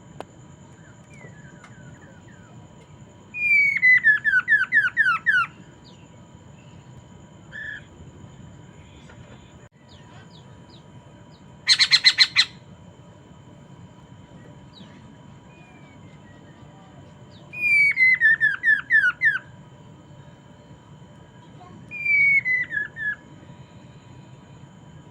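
Poksay mandarin songbird singing: four loud phrases of quick whistled notes, each sliding downward, with a short harsh squawk about midway. Faint steady tones run underneath.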